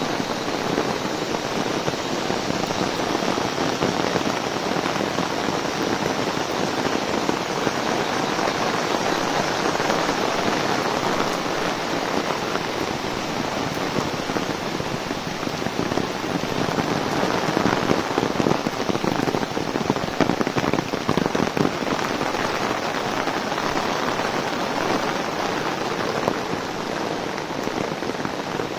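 Heavy rain falling on an umbrella overhead: a dense, steady patter of drops, a little heavier about two-thirds of the way through.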